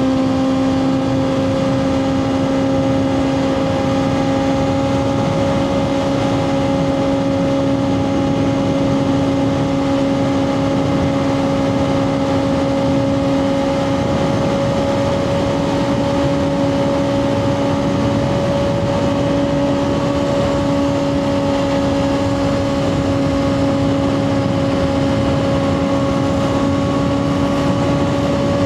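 2024 Kawasaki ZX6R's inline-four engine through a Two Brothers slip-on exhaust, held at a steady, fairly high rpm while cruising, its pitch creeping up slowly, with wind rush under it.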